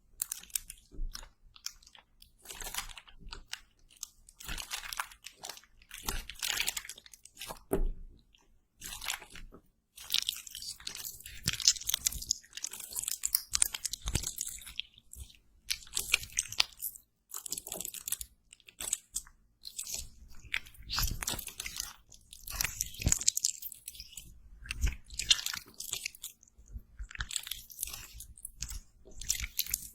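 Close-miked ASMR crunching and crackling in irregular bursts of a second or two, with short gaps between them, the crackle bright and high-pitched.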